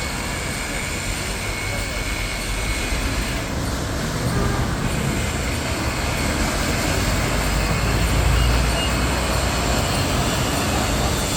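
Autoequip/Degama Fly 28 rollover car wash machine running: a steady rushing noise over a low hum, growing somewhat louder partway through.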